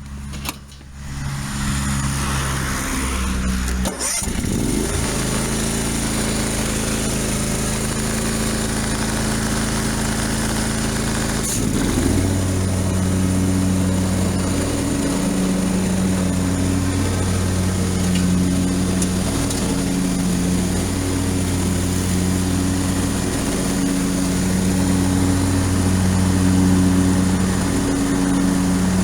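Kawasaki V-twin engine of a Cub Cadet LTX 1046 KW lawn tractor starting up and running. Its pitch shifts at about four and again at about twelve seconds in, then it runs steadily with a drone that swells and dips every few seconds.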